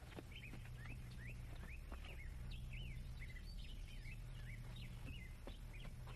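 Faint songbirds chirping: many short rising and falling chirps, several a second, over a low steady hum.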